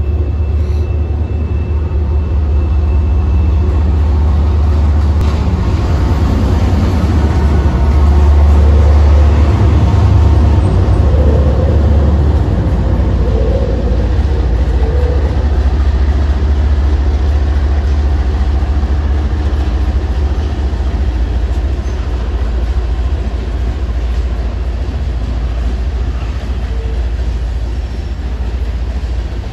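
Diesel freight locomotives hauling a coal train past, followed by a string of coal hopper cars. A deep, steady rumble is loudest for a few seconds about a third of the way in as the locomotives go by, then settles into the even roll of the hopper cars.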